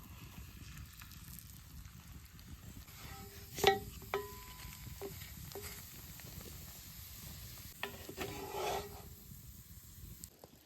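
Outdoor cooking sounds: two sharp, briefly ringing clinks of a utensil against cookware, a few lighter taps, then a short stirring or scraping sound near the end, over a low steady background.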